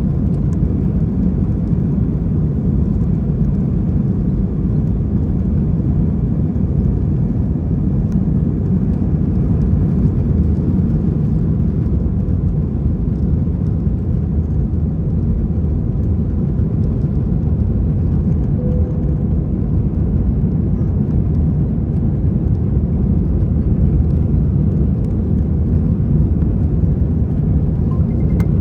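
Airbus A320 cabin noise: a steady low rumble of the jet engines and airflow, heard from inside the passenger cabin.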